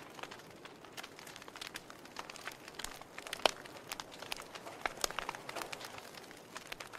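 Wood fire crackling: irregular sharp pops and snaps over a soft hiss, with one louder pop about halfway through.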